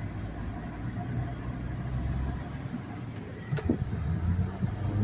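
Car engine and road noise heard from inside a moving car: a steady low hum, with a short sharp click about three and a half seconds in and another near the end.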